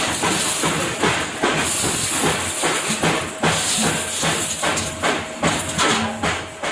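Factory machinery running: a steady hiss with many quick, irregular knocks.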